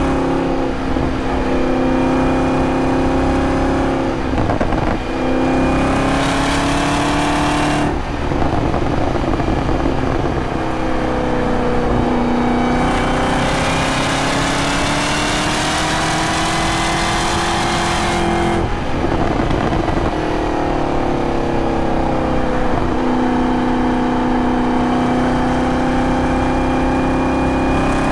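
2023 Chevrolet Camaro ZL1's supercharged 6.2-litre V8 running under varying throttle, its note rising and falling as the car accelerates and eases off, with brief breaks in the note around 5, 8 and 19 seconds in.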